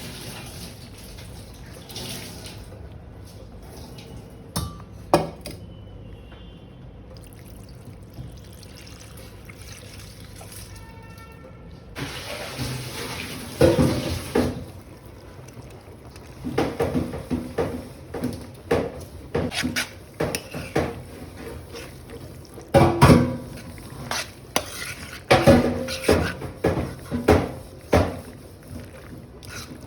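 Kitchen cookware and utensils clattering: a few isolated knocks over a steady hiss at first, then frequent irregular clinks and knocks through the second half.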